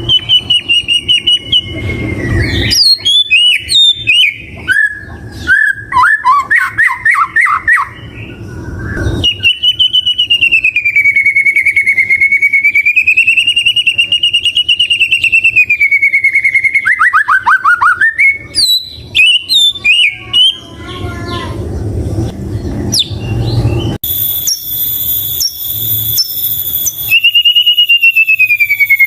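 White-rumped shama (murai batu) singing a varied song: quick chattering notes and trills, then a long wavering whistle held for several seconds that breaks into a fast falling trill, followed by more short phrases and another wavering whistle near the end.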